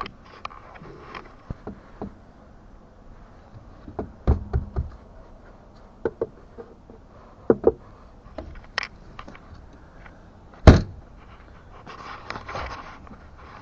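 Scattered knocks and clunks of a bass boat's storage hatch lids being opened and handled, with one loud thump about three-quarters of the way through and some rustling near the end.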